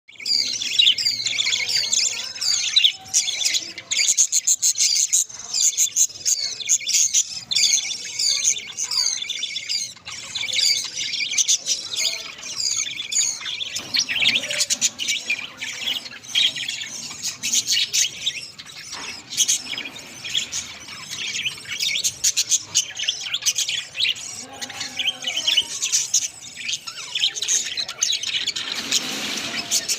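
Budgerigars chattering, with a continuous stream of rapid, overlapping chirps and warbles.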